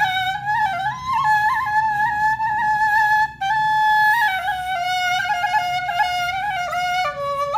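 Background music: a flute playing a slow, ornamented melody, one held note gliding into the next, with a short break a little after three seconds.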